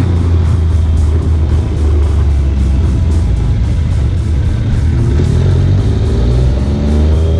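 Motorcycle engine running under background music, revving up with a rising pitch over the last couple of seconds as the bike accelerates.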